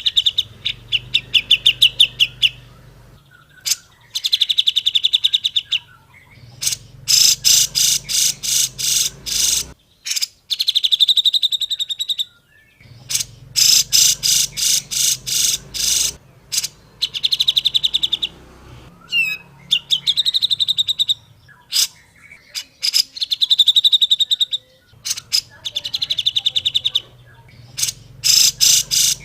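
Cucak jenggot (grey-cheeked bulbul) singing in a string of phrases. Each phrase is a fast run of repeated sharp notes lasting one to three seconds, with short pauses between phrases.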